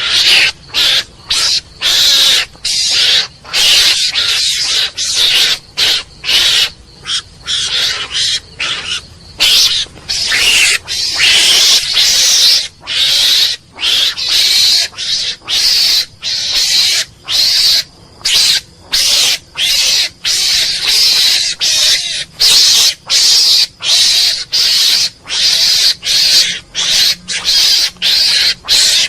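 Mongoose calling in a long, rapid series of short, high, noisy calls, about two a second with brief gaps between them.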